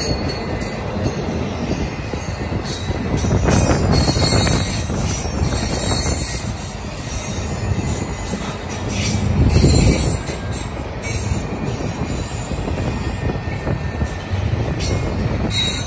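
Double-stack intermodal freight cars rolling past close by: a steady rumble of steel wheels on the rail, with occasional clanks and faint high-pitched wheel squeal. It swells louder around a third of the way in and again just past the middle.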